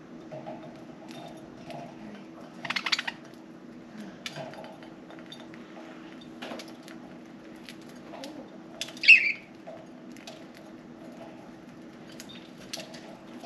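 Budgies pecking and cracking millet seeds, making scattered small clicks of beak on seed, with a short rapid rattle about three seconds in and one loud budgie chirp just after nine seconds, over a steady low hum.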